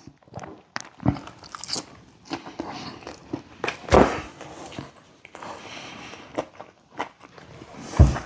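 A person chewing crispy fried chicken tenders with their mouth close to the microphone: irregular crunching bites, the loudest about four seconds in.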